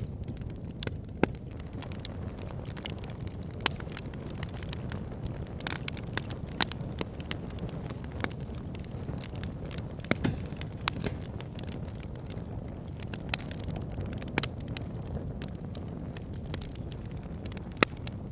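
Wood fire burning in a fireplace: a steady low rush of flames with irregular crackles and sharp pops from the burning logs, a handful of louder pops scattered through.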